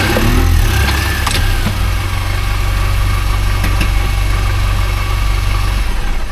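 Mini Cooper S's supercharged four-cylinder engine running with a steady low rumble and a few sharp clicks. The rumble stops shortly before the end.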